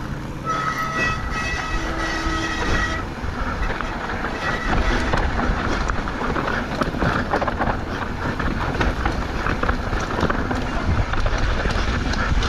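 Mountain bike riding over rough, rocky trail: the tyres crunch and the bike rattles with many small knocks, over a low rumble of wind on the microphone. For the first three seconds a high buzz stops and starts.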